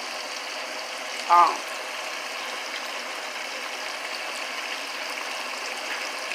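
Steady sizzling hiss of food cooking on the stove, with a brief vocal sound about a second and a half in.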